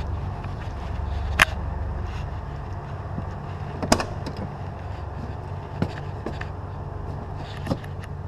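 An engine idling steadily nearby, with four sharp clicks or knocks spread through it, the loudest about a second and a half in and about four seconds in.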